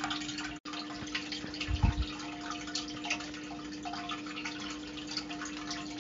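Underwater water ambience: a constant dense crackle and dripping with a steady low hum, and a low thump about two seconds in.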